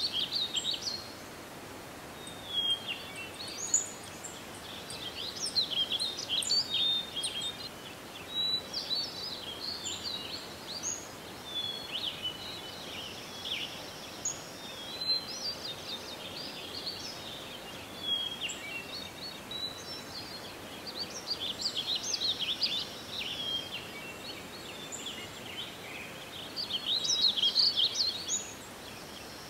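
Songbirds chirping and singing in many short, high-pitched phrases, coming in clusters with brief pauses, over a steady faint hiss.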